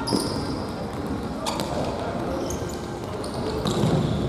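Futsal being played on a gymnasium floor: the ball is struck sharply twice, once right at the start and again about a second and a half in, among short high sneaker squeaks and players' voices in the hall.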